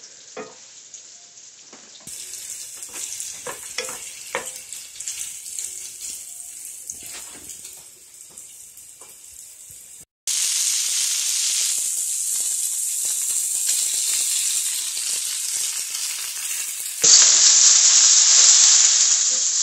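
Chicken pieces and onions sizzling in a stainless steel skillet, with a wooden spatula knocking and scraping in the pan as they are stirred. The sizzle is faint at first, jumps much louder about ten seconds in, and louder again near the end.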